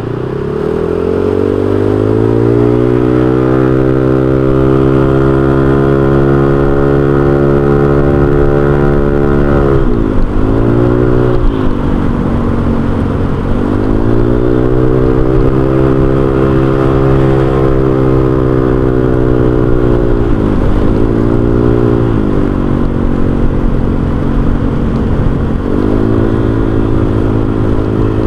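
Honda Vario 125 scooter engine running through an aftermarket racing exhaust while riding. Its note rises over the first couple of seconds, then holds a steady cruise. The note drops and picks back up about ten seconds in, and twice more in the second half.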